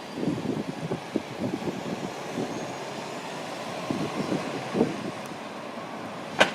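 Street traffic with buses running, with gusty low rumble in the first couple of seconds. A sharp click near the end.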